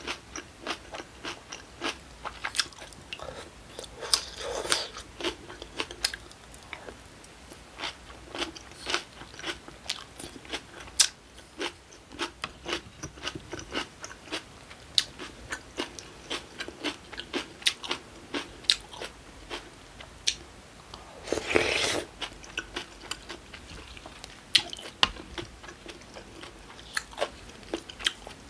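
Chewing and crunching of acorn-jelly rice in cold broth with kimchi and raw vegetables: a steady run of sharp crunches, with one longer, louder rush of sound about two-thirds of the way in.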